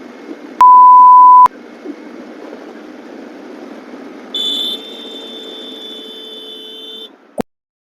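A loud, pure censor bleep, just under a second long, over the steady noise of a motorcycle ride. A few seconds later a higher steady tone sounds for about three seconds, then all sound cuts off abruptly.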